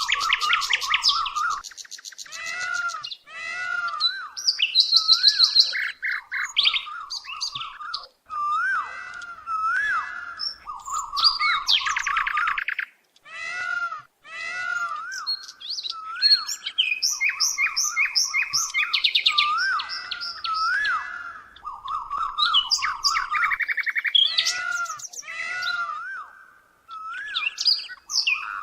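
Birdsong: a busy stream of chirps, fast trills and wavering whistles, phrase after phrase with only brief pauses.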